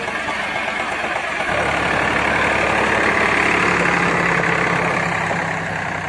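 Diesel tractor engine running. It grows louder about a second and a half in and eases slightly near the end.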